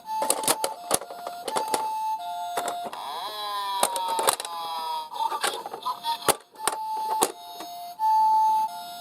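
Two-tone hi-lo ambulance siren sound, alternating steadily between a higher and a lower pitch. It runs over sharp clicks and clatters of small diecast toy cars knocking as they roll. In the middle there is a brief cluster of falling-pitch tones.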